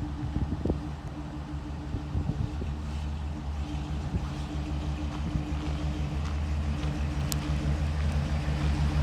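2009 Ford E450 bucket truck's engine running at a steady idle, growing a little louder toward the end, with a single sharp click about seven seconds in.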